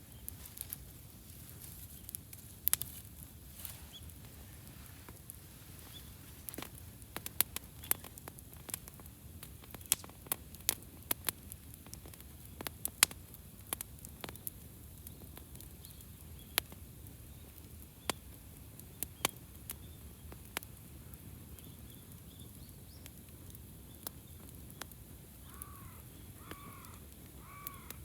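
Wood campfire crackling, with irregular sharp pops and snaps over a low hiss. A bird calls several times near the end.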